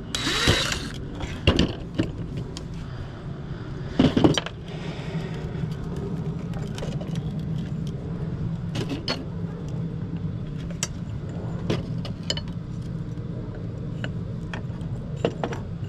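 A steady low mechanical hum with scattered sharp clicks and knocks, typical of metal parts being handled and taken apart. The loudest knocks come near the start and about four seconds in.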